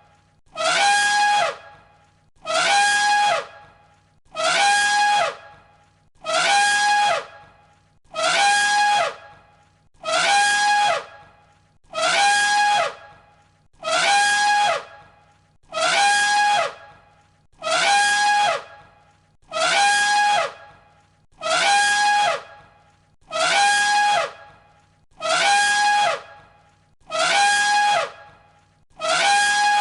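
Elephant trumpeting: the same single short trumpet blast, looped, repeating about every two seconds. Each blast holds a high pitch, then drops as it ends.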